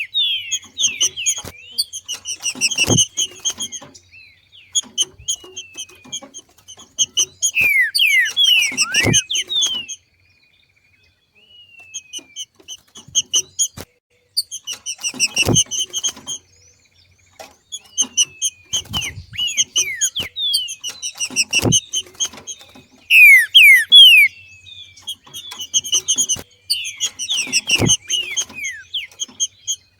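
Green-winged saltator (trinca-ferro) giving the rapid chattering 'macheado' calls of a bird in breeding condition: runs of short, sharp chip notes mixed with quick downward slurs, broken by a short pause about a third of the way in, loudest just before the end. A few sharp taps sound among the calls.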